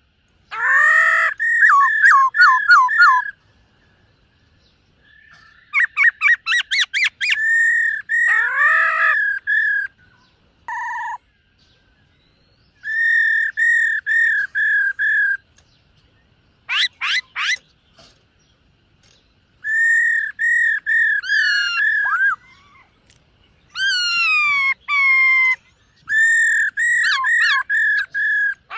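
Black-throated laughingthrush singing: loud whistled phrases of quickly repeated notes with some sweeping and falling notes, given in bursts with short pauses between them.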